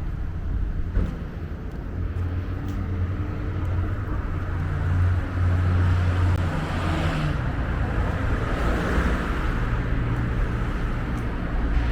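Road traffic: a vehicle engine running low, with a swell of tyre noise as a car passes about seven to nine seconds in.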